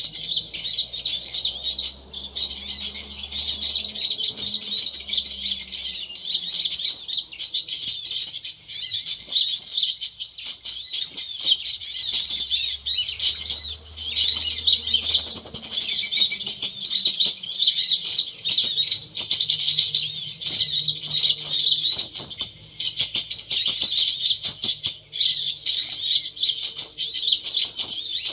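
Small songbirds chirping and twittering without a break: a dense stream of quick high-pitched notes, many overlapping, mixed with rapid ticks.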